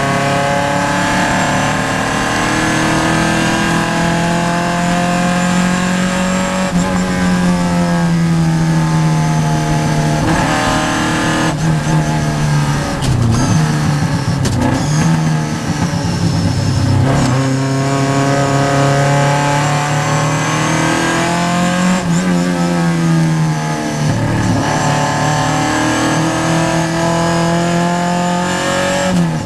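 Vintage Triumph race car's engine under racing load, heard from inside the car: the pitch climbs and drops off again and again as the driver works through the gears and lifts for corners.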